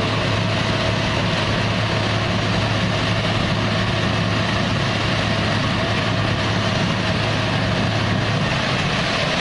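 Concrete mixer truck's diesel engine running steadily during the pour, with a low hum that drops away near the end.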